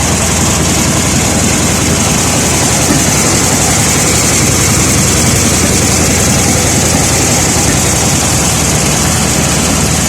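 Volkswagen Beetle engine running with a misfire, its low pulsing uneven, with a steady high hiss over it.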